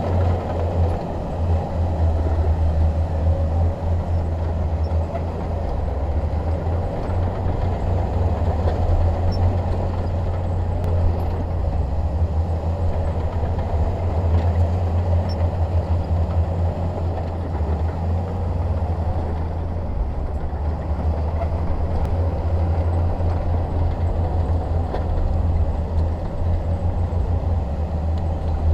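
Crawler bulldozer's diesel engine running steadily under load, a deep, even low rumble.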